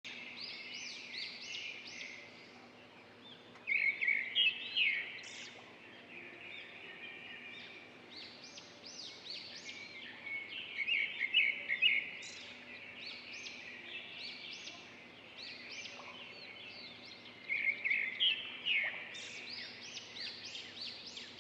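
Small birds chirping and singing in many quick, overlapping notes, with three louder, busier bursts of song spaced several seconds apart.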